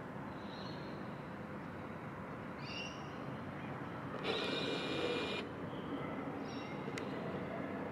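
Birds calling over a steady hum of distant traffic: a few short chirps, and one louder, drawn-out call just over four seconds in that lasts about a second.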